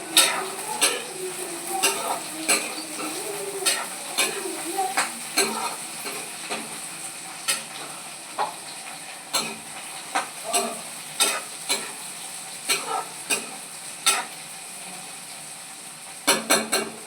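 Beans and potatoes frying in a pan with a steady sizzle, while a spoon stirs them and clinks and scrapes against the pan at irregular intervals, with a quick run of clinks near the end.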